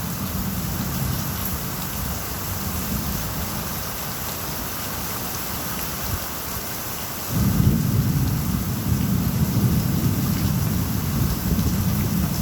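Steady rain with a low rolling rumble of thunder, which grows suddenly louder a little past halfway through and keeps rumbling.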